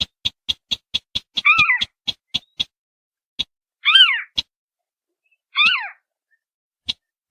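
Recorded marsh-bird lure calls of crakes: a rapid series of sharp ticking notes that slows and spaces out, broken by three downward-sliding whining calls.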